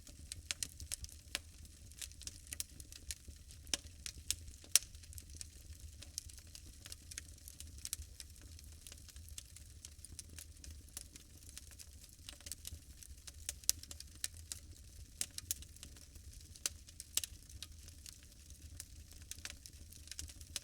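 Wood fire burning in a fireplace, crackling with irregular sharp pops and snaps over a faint low rumble of the flames; the loudest pops come a little under five seconds in and again about two-thirds of the way through.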